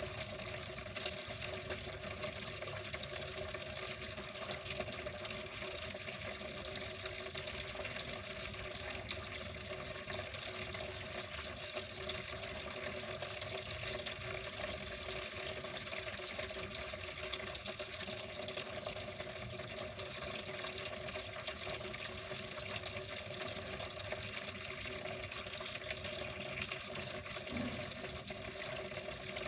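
Water flowing steadily, an even, unbroken rush that holds the same level throughout.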